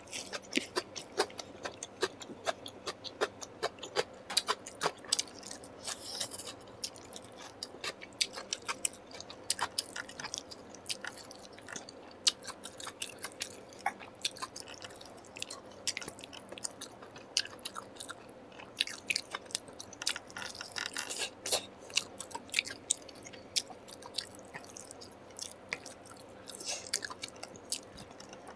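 Close-miked chewing of a curry-and-rice meal: many wet mouth clicks and smacks, with the odd crunch.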